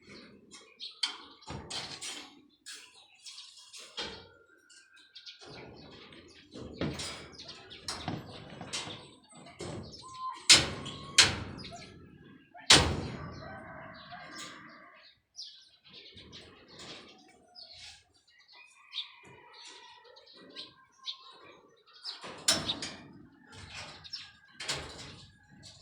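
Irregular sharp knocks and clatter, the loudest about ten to thirteen seconds in, with birds chirping between them.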